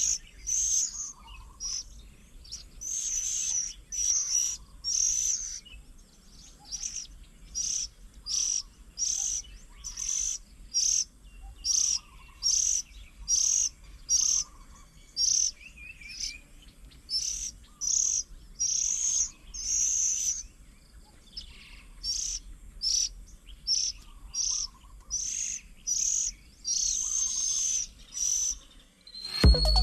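Birds calling, one repeating a short high call about once or twice a second, with fainter lower notes between. Music comes in just before the end.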